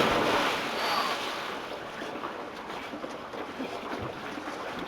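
A person plunging into lake water: a loud splash right at the start, then the water sloshing and settling as it fades.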